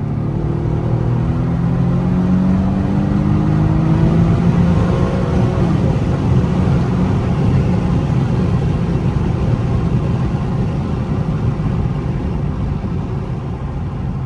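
Car engine accelerating hard, its pitch rising for the first five seconds or so, then giving way to steady road and tyre rumble as the car cruises.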